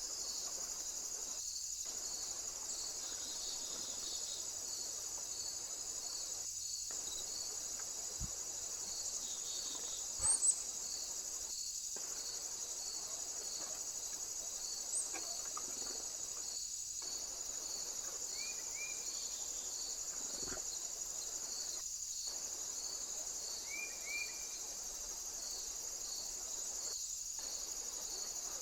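Insects, crickets or similar, calling in a steady high-pitched chorus, with a second insect pulsing in an even rhythm just beneath it. A bird gives a few short faint chirps, and there is a brief loud double click about ten seconds in.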